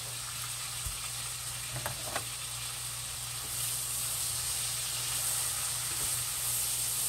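Chopped celery and onion sizzling as they sauté in butter in a skillet, stirred with a silicone spatula. A couple of light clicks come about two seconds in, and the sizzle grows a little louder past halfway.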